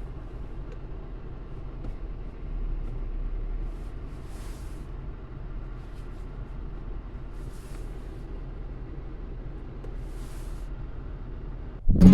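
A steady engine hum, with a short hiss about every three seconds. Acoustic guitar music starts suddenly near the end.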